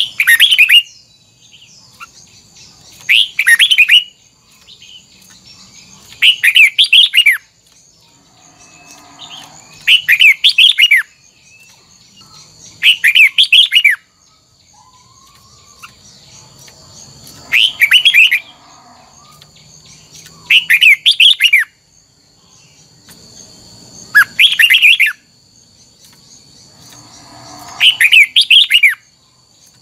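Red-whiskered bulbul singing loud, short warbling phrases of about a second each, nine times, with pauses of two to three seconds between them.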